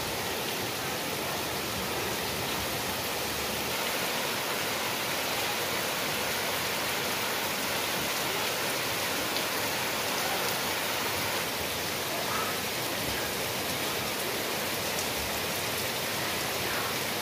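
Heavy rain pouring steadily: a dense, even hiss with no break.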